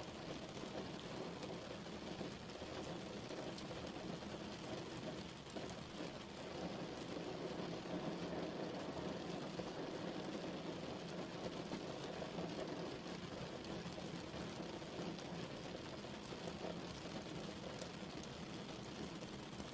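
Steady rain falling and pattering on a surface, with faint scattered drop ticks.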